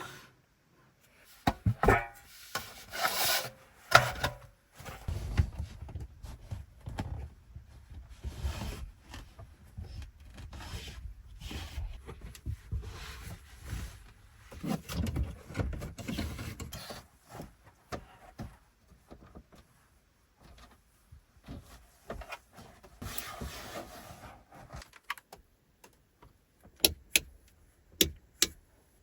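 Objects being handled: irregular rubbing and knocking, with a low rumble in the middle and a run of sharp clicks near the end.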